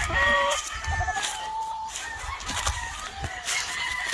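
Gamefowl roosters crowing, with chickens clucking around them and a few short knocks.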